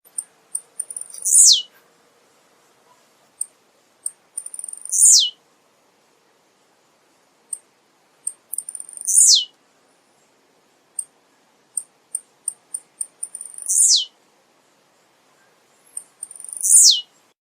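Male blue-black grassquit (tiziu) singing. Five times, about every three to four seconds, it gives a few short high chips and then a sharp note that sweeps steeply down in pitch.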